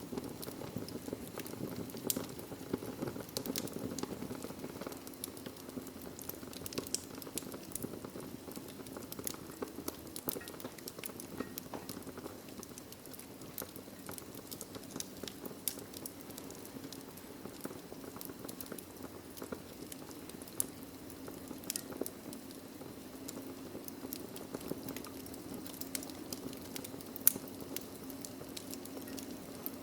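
Wood logs burning in a fireplace: frequent small crackles and pops over a low, steady rush of flame, with one sharper pop near the end.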